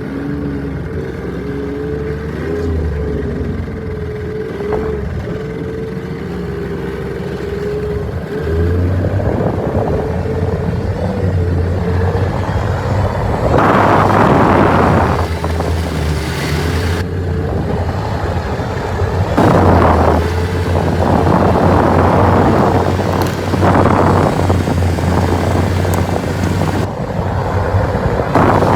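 Yamaha Viking snowmobile engine running under way, a steady droning note at first. From about halfway in, the engine is louder, with repeated surges as the throttle is opened.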